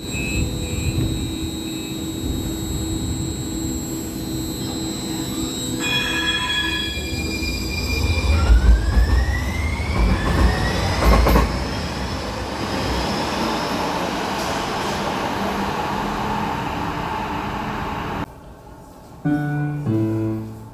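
One-car Muni Metro light-rail train moving through the underground station. Its motor whine rises in pitch as it gathers speed, over a rumble of wheels on rail. Near the end there is a short electronic chime from the platform PA.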